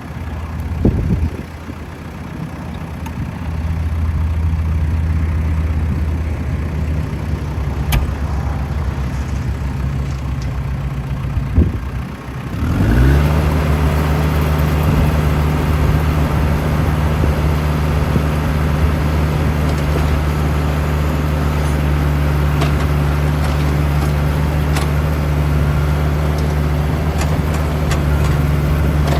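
New Holland T2320 compact tractor's diesel engine running at low speed with a few short knocks, then revving up about thirteen seconds in and holding a steady higher speed.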